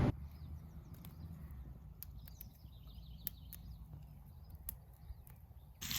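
Quiet outdoor ambience: a steady low hum with a few scattered sharp clicks, and a faint series of short high chirps from a small bird a couple of seconds in.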